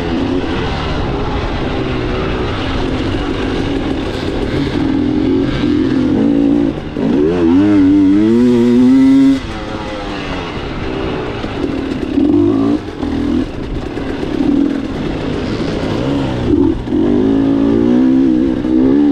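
Two-stroke 300 cc enduro dirt bike engine under way, revving up and down with the throttle. The loudest stretch is a climbing rev about seven to nine seconds in, which cuts off suddenly.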